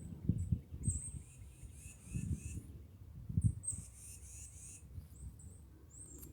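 Faint, short, high-pitched bird chirps repeating now and then, with a few low thumps and rumbles of the phone being handled or of wind on the microphone.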